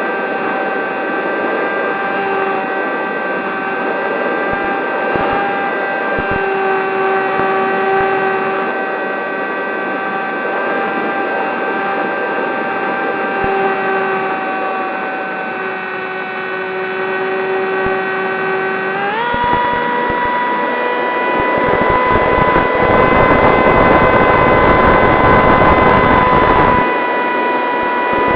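Whine of the Zohd Talon GT Rebel RC plane's electric motor and propeller in flight, holding a steady pitch and then rising quickly to a higher, steady pitch about two-thirds through as the throttle is opened. From then on a rough low rumble of wind on the microphone runs under the whine.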